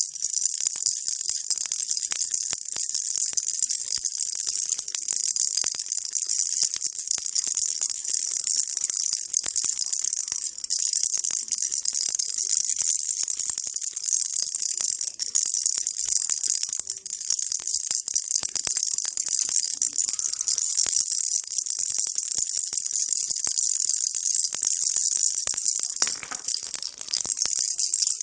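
Baby rattle shaken continuously: a dense, steady shower of small high-pitched clicks, with a brief lull about 26 seconds in.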